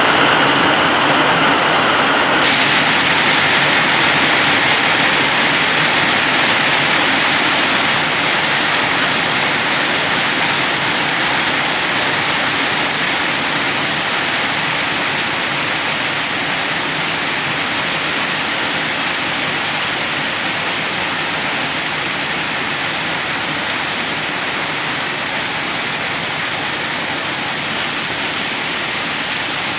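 Heavy rain falling in a steady hiss, easing very gradually.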